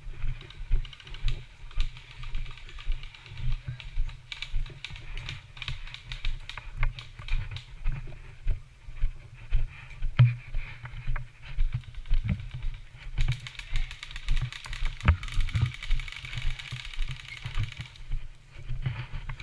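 Footsteps of a person walking steadily at about two steps a second, with clicks and rattles from carried gear. A denser run of clicks comes in later on.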